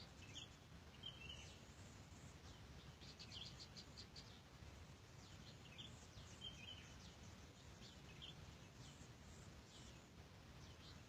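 Faint chirping of small birds: short high calls every second or so, with a quick run of chirps about three seconds in, over a low steady rumble.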